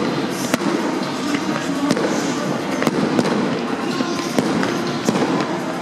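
Fireworks display: a dense, continuous crackle with frequent sharp bangs as aerial shells burst and ground-level pieces fire.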